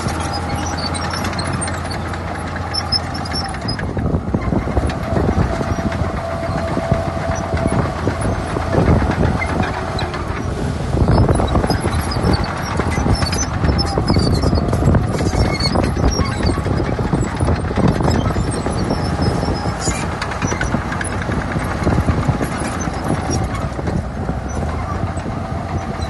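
Shantui crawler bulldozer working in sand: its diesel engine running under load while the steel tracks clank and rattle, with a thin whine coming and going.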